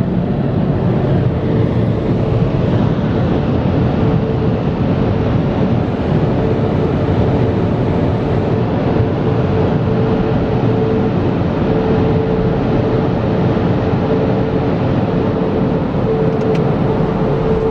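LaserWash touchless automatic car wash running: a loud, steady rushing noise with a steady mid-pitched hum joining about a second and a half in and continuing throughout.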